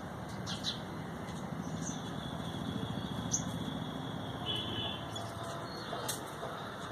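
Birds giving short, high chirps and calls, with a brief held whistle-like note about four and a half seconds in, over a steady low rumble.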